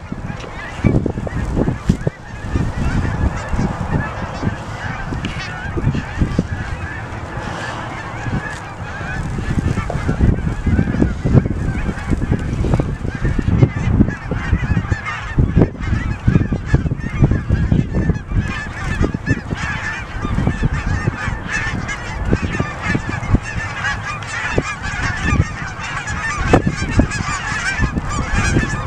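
A large number of geese honking, many calls overlapping in a continuous chorus, with an irregular low rumble underneath.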